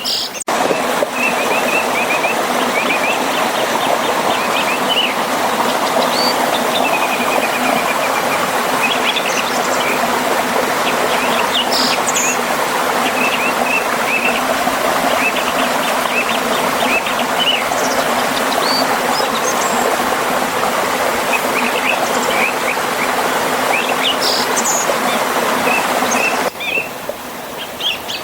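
Steady rush of a forest river and small waterfall, with birds repeatedly chirping and singing short trills over it. The water sound drops abruptly in level near the end.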